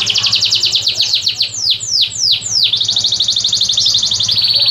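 A caged songbird singing a loud, continuous song of very fast trills, broken in the middle by a few down-sweeping whistled notes, then trilling again.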